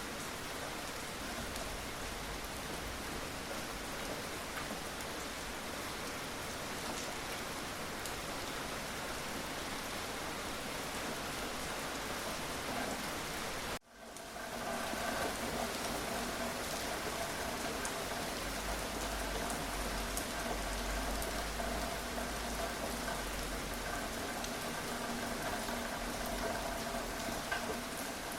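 Steady rain falling, an even hiss of drops. About halfway through, the sound cuts out for a split second and comes back, with a faint steady hum under the rain after the cut.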